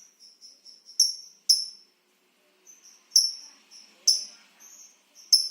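Lovebird ngekek: a run of shrill, high-pitched chirps. Softer short notes lead into five loud, sharp calls spaced about half a second to a second apart.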